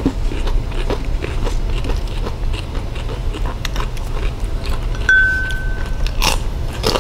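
Close-miked chewing and mouth smacks of people eating fried breakfast food with their hands, over a steady low hum. About five seconds in there is a short, steady high tone.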